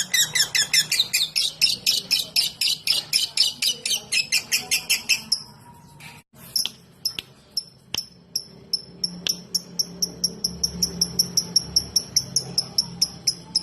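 Lovebird doing its 'ngetik' song: a fast, even run of sharp ticking chirps, about five to six a second. The run breaks off about five seconds in and resumes a second later as thinner, more regular ticks.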